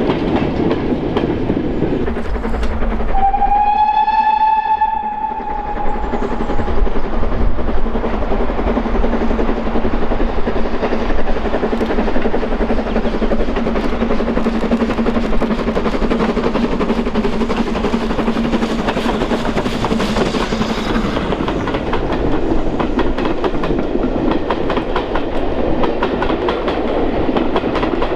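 A steam-hauled train running on the line, with one steady whistle blast about three seconds in that lasts around three seconds, over continuous wheel-on-rail noise with rapid regular beats.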